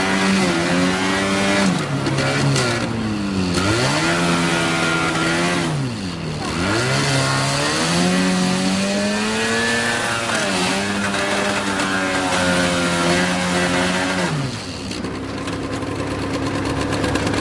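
An engine running and being revved up and down, its note holding steady, then dropping sharply and climbing back several times, with deep dips about four and six seconds in. The steady engine note cuts out about fourteen and a half seconds in.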